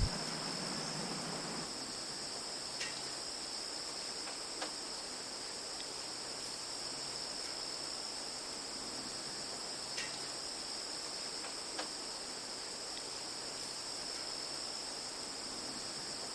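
Insects trilling in a steady chorus, a constant high-pitched drone, with a few faint short chirps now and then.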